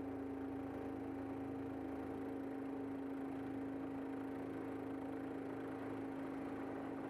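Helicopter engine and rotor drone, even and unchanging, with a few held tones over a low hum.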